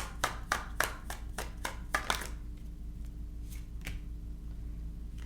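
A deck of tarot cards being shuffled by hand, the cards slapping in a quick even rhythm of about five a second for about two seconds, then two single taps later on, over a steady low hum.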